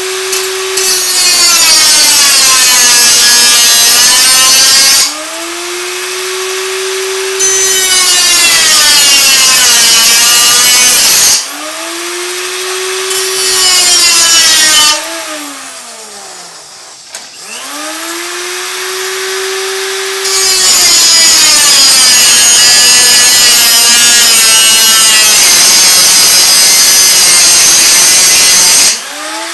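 3-inch cutoff tool's abrasive wheel cutting 40-thousandths sheet steel in four long passes, each a loud harsh shriek, with the motor's whine spinning free between passes. About halfway through the tool winds down and spins back up.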